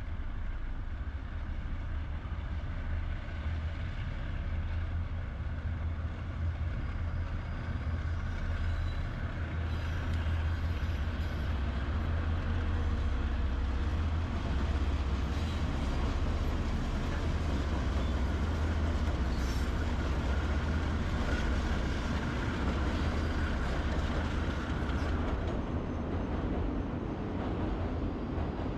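KiwiRail diesel locomotive train running, a steady deep engine drone with a fainter higher whine. It swells a little through the middle and eases slightly near the end.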